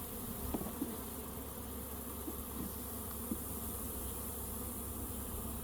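Honey bees buzzing steadily around an open hive, with a few short, slightly louder buzzes scattered through.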